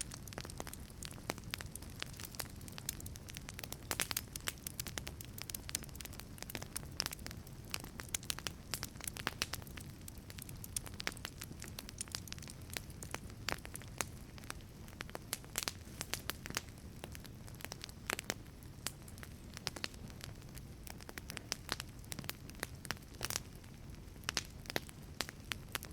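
Wood fire burning in a wood-fired pizza oven: dense, irregular crackles and pops from the burning wood over a steady low rumble of the flames.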